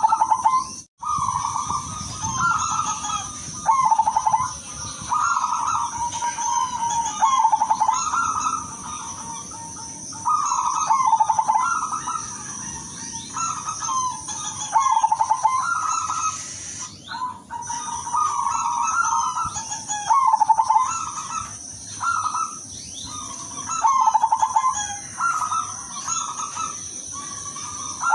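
Zebra doves (perkutut) cooing: trilled phrases of rapid pulsed notes, repeated one after another every second or two, over a steady high-pitched hiss.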